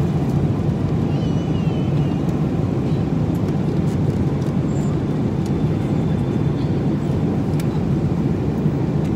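Steady low drone of an airliner's cabin noise, engine and air rushing, even in level throughout.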